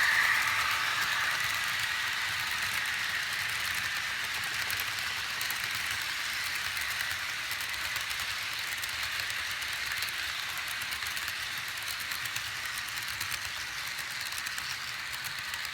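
HO-scale model locomotives running on the track: a steady high-pitched rushing rattle of wheels on rail and motor whine that slowly fades, with faint clicks near the end.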